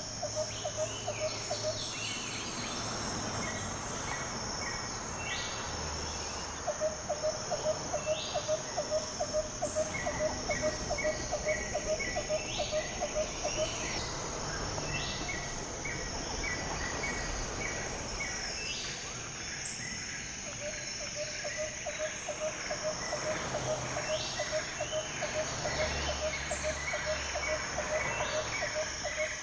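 Outdoor chorus of insects droning steadily, with birds calling over it: long runs of quick low pulsed notes, about three or four a second, that stop and start again, and rows of short higher chirps.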